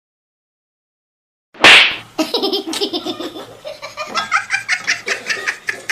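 Silence for about a second and a half, then a sudden loud burst of noise, followed by a person laughing hard in quick repeated bursts.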